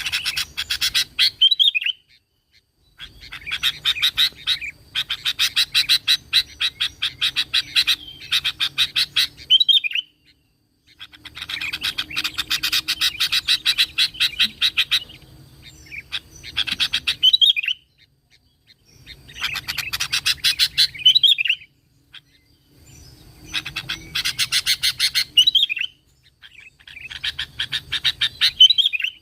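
Sooty-headed bulbul (kutilang) singing in rapid chattering bursts of a few seconds each, many ending on a short whistled note, repeated with brief pauses between them.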